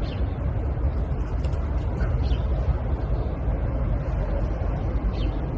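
Steady low rumbling noise, with a few faint short high chirps now and then.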